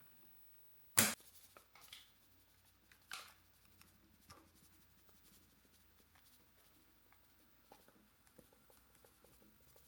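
A sharp knock about a second in, then a few short scrapes and scattered light taps over a faint low hum.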